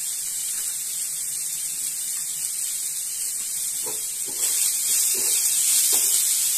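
Diced brinjal frying in mustard oil in a wok, a steady sizzle that gets louder a little past halfway as the pieces are stirred with a wooden spatula, with a few light taps of the spatula on the pan.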